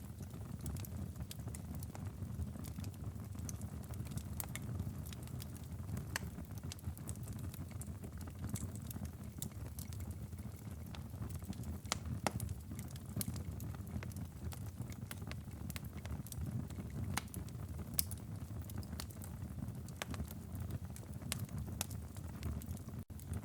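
Wood fire crackling in a fireplace: a steady low rumble with scattered sharp pops and crackles, a louder pop about eighteen seconds in.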